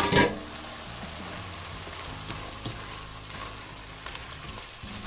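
Chicken gizzards, hearts and chayote sizzling and simmering in a freshly uncovered pan, stirred with a silicone spatula that makes scattered soft clicks against the pan. A brief loud clatter right at the start.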